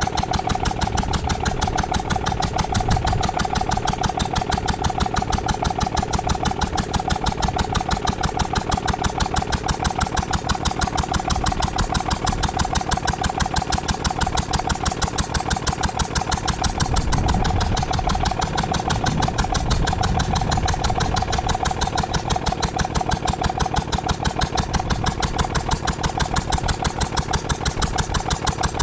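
Ruston & Hornsby 2PS petrol-engined air compressor running steadily, a fast even beat with a steady high note running through it. A deeper rumble swells for a few seconds about two-thirds of the way through.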